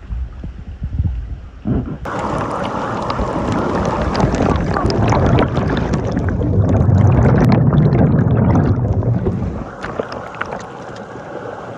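Loud splashing and rushing of stream water, starting suddenly about two seconds in, swelling toward the middle and easing off near the end.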